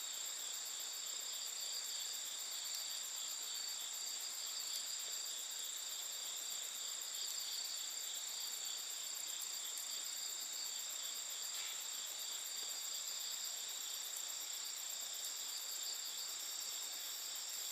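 A steady chorus of night insects such as crickets, trilling without a break at several high pitches over a faint hiss.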